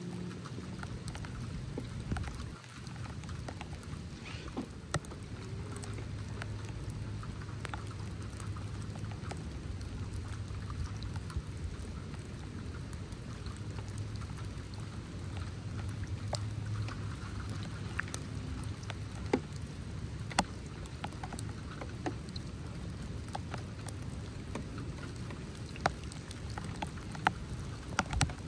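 Steady rain falling, with scattered sharp drops tapping close by.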